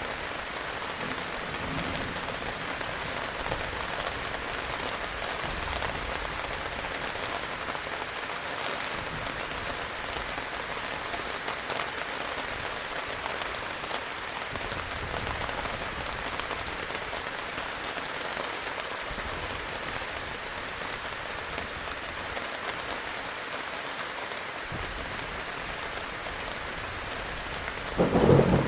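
Heavy rain falling steadily, with low thunder rumbling faintly now and then and a loud thunderclap near the end.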